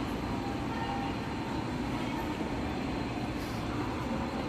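A train running at the station, a steady noise with no distinct events.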